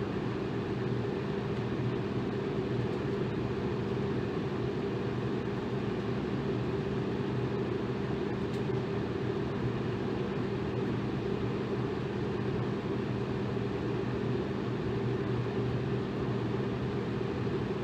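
Electric fan running steadily: an even whoosh of moving air with a low motor hum underneath.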